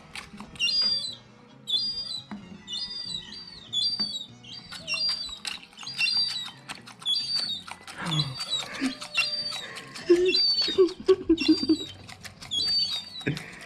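Gull chicks peeping over and over: short, high, hooked begging calls about one or two a second, with many sharp clicks among them and a few lower wavering calls near the middle.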